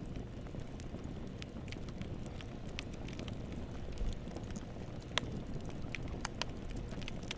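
Wood fire burning in a fireplace: a steady low rumble of flame with scattered sharp crackles and pops, one louder pop about five seconds in.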